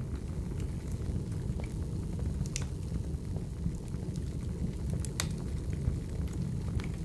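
Wood fire burning: a steady low rumble of flames with scattered sharp crackles and pops. The loudest pops come about two and a half and five seconds in.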